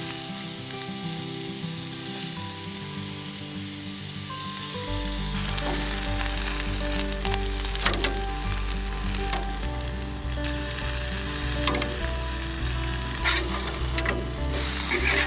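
Wood fire crackling and hissing in a garden fireplace, with scattered sharp pops; it grows louder about five seconds in. Background music plays under it.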